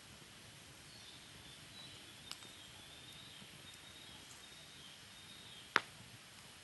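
Wood fire burning quietly in a Picogrill 498 fire pit, with a small pop about two seconds in and a louder sharp crack near the end.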